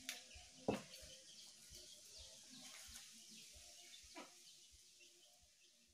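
Faint sounds of raw leaves being torn and chewed, with a few soft clicks, fading quieter toward the end.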